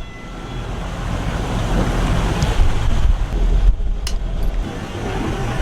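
Wind buffeting the microphone over waves washing around a sailboat at sea, with one sharp click about four seconds in.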